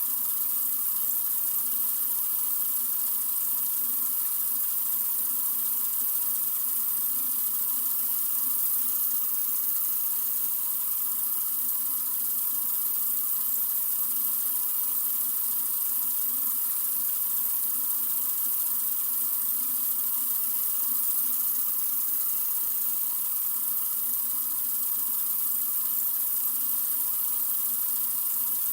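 Sink faucet running in a continuous steady stream, an even hiss of water with no change.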